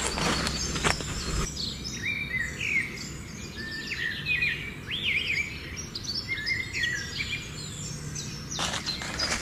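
Several birds chirping, with many short, quick rising and falling calls overlapping each other. A rustling noise fills the first second or so and returns near the end.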